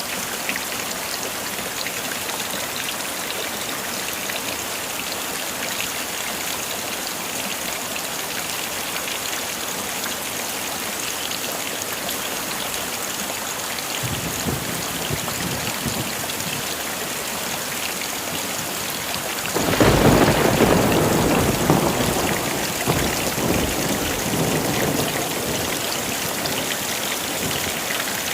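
Heavy rain falling steadily, with a low rumble of thunder about halfway through and then a loud thunderclap about two-thirds of the way in that rolls away over several seconds.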